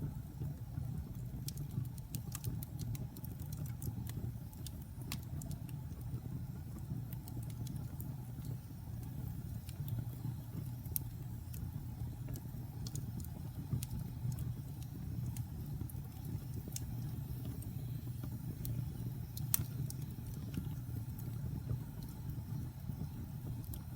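Wood fire burning in a fireplace: a steady low rumble with scattered sharp crackles, and one louder pop near the end.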